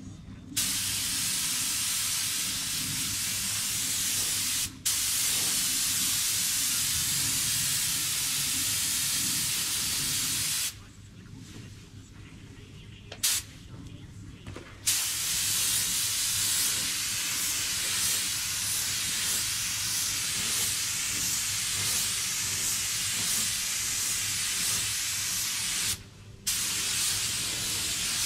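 Paint spray gun spraying colour in long hissing passes, with the trigger let off briefly a few times: a short break about five seconds in, a longer pause around the middle with one quick burst, and another short break near the end. A low steady hum runs underneath.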